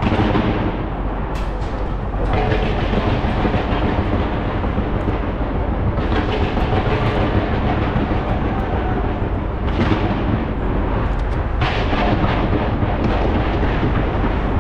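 Dense barrage of New Year fireworks fired from a skyscraper: a continuous rumble of rapid bangs and crackling, which swells again with new volleys several times.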